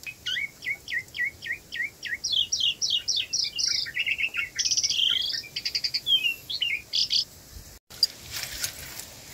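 A songbird singing a quick run of short, downward-slurred whistled notes that turns into faster chirps and trills, stopping about seven seconds in. Faint clicks follow near the end.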